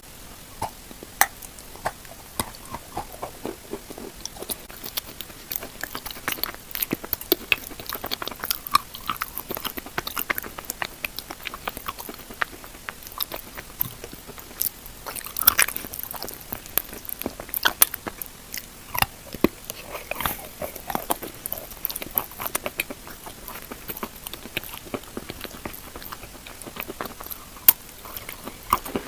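A person chewing and crushing chalk coated in chalk paste, close to the microphone: a steady run of irregular crisp crunches and bites mixed with softer pasty chewing.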